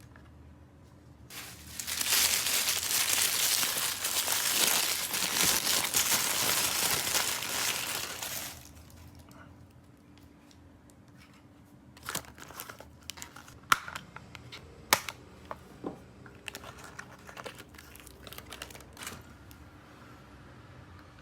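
Toy packaging crinkling and tearing for about seven seconds as it is unwrapped, then a scatter of light clicks and taps as small pieces are handled.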